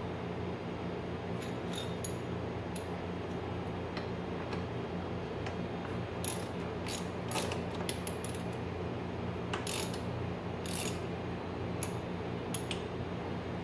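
Socket ratchet clicking in short, irregular runs as a lawnmower blade bolt is tightened down snug, over a steady low hum.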